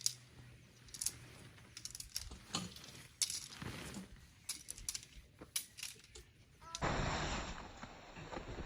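Scattered light clinks and knocks of small hard objects being handled, then, about seven seconds in, an abrupt switch to a steady rushing noise.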